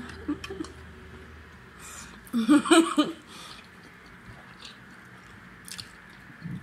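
Close-up chewing and wet mouth sounds of people eating tripe and pap with their hands, with small clicks and smacks. A short vocal sound, like a hum or brief utterance, comes about two and a half seconds in and is the loudest moment.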